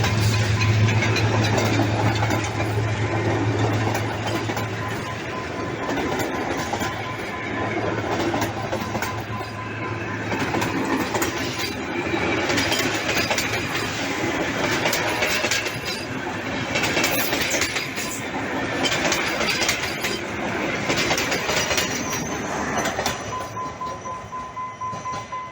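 A train running along the track: a steady rushing rumble with scattered wheel clatter.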